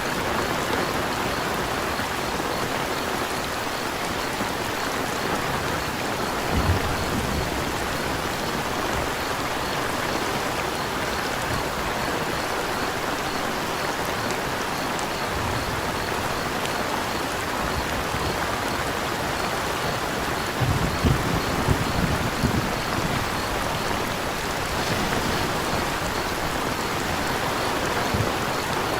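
Steady rain falling, an even hiss, with crickets chirping faintly and regularly underneath. Twice there is a brief low rumble, about a quarter of the way in and again past the middle.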